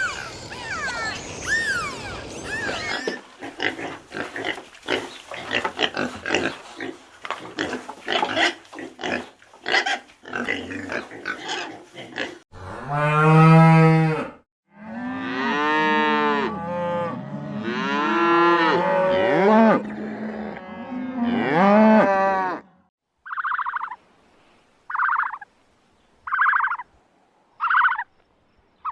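A run of different animal calls. The loudest is cattle mooing, a low call about halfway through, followed by several seconds of drawn-out calls that rise and fall. It starts with rapid clicking and chirping and ends with short repeated calls, about one every second and a half.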